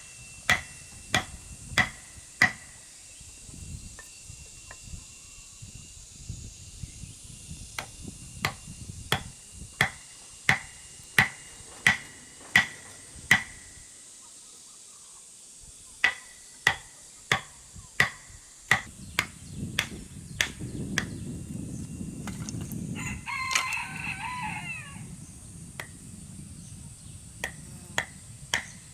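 Sharp, regular strikes of a hand tool, about one every two-thirds of a second with a brief ringing note each, coming in runs with short pauses. A rooster crows once about 23 seconds in.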